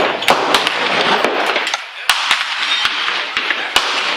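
Gunfire at a shooting range: a dozen or so sharp shots in irregular succession, at times several a second, over a steady rushing noise.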